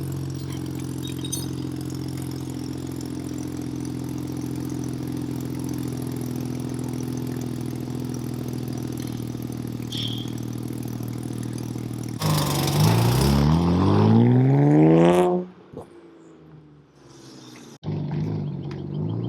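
BMW 335i's N54 twin-turbo inline-six idling steadily through a straight-piped 3.5-inch exhaust with a muffler. About twelve seconds in it is revved, the pitch rising for about three seconds before the sound cuts off abruptly. Engine sound returns near the end.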